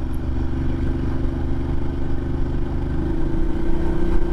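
Adventure motorcycle's engine running steadily under way, its pitch edging up slightly about three seconds in.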